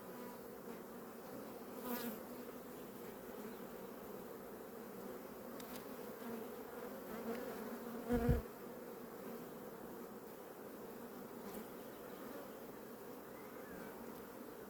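Honey bees from an open hive buzzing as a steady hum. A short dull knock about eight seconds in is the loudest sound, with a few faint clicks besides.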